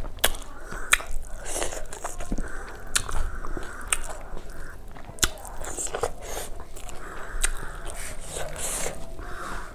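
Close-miked chewing of a mouthful of rice and fish curry, with sharp wet mouth clicks and smacks roughly once a second.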